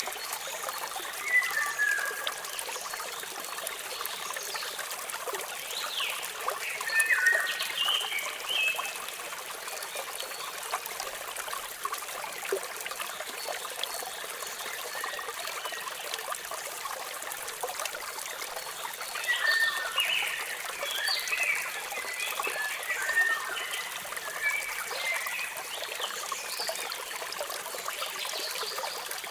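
Steady rush of falling water with birds chirping over it: brief chirps at about two seconds and from about six to nine seconds, then a longer run of chirping from about nineteen to twenty-six seconds.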